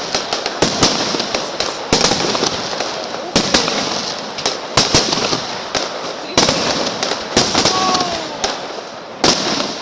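Fireworks display: repeated sharp bangs from bursting shells over dense continuous crackling, with louder bangs every second or two.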